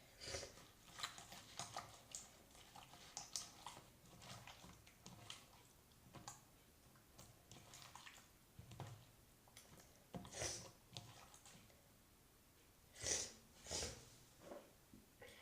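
Slime being squeezed and handled by hand: soft, scattered squishes and sticky clicks, with a few louder ones near the end.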